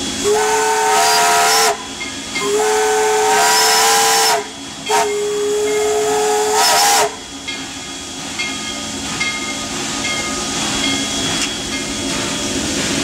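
Steam locomotive whistle sounded three times from inside the cab, loud, the last blast rising in pitch as it opens, then a steady hiss of steam.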